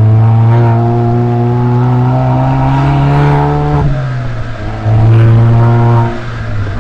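Suzuki Swift Sport ZC33S's 1.4-litre turbo four-cylinder through a SACLAM aftermarket muffler, heard from outside the car: the exhaust note climbs steadily in pitch for about four seconds, drops off sharply, then comes back loud and steady for about a second near the end.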